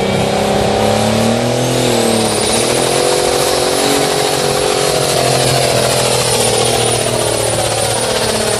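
Modified pulling tractor's engine running hard and loud, its pitch dipping about two seconds in, then rising and sagging slowly toward the end. A high whine climbs in early and holds over the engine.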